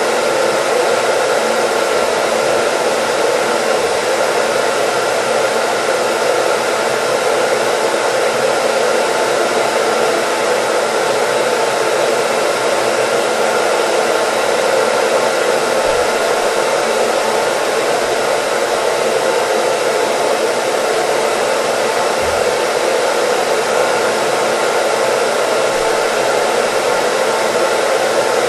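Hair dryer running steadily: a constant, even rushing of air and motor with a faint steady whine, used as white noise.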